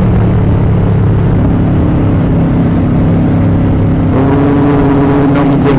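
Motorcycle engine running steadily under way, its note rising a little in pitch about four seconds in.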